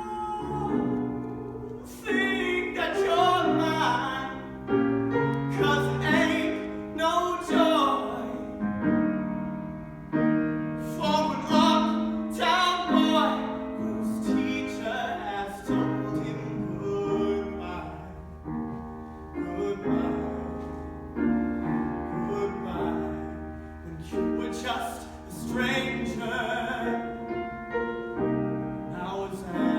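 A solo voice singing with piano accompaniment, holding long notes with vibrato.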